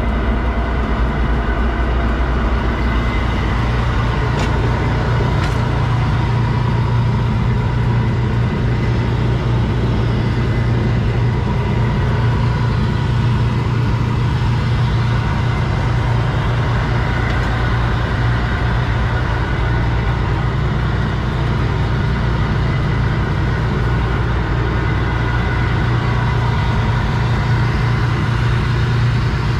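M113 armoured personnel carrier's engine running steadily with a loud, deep drone.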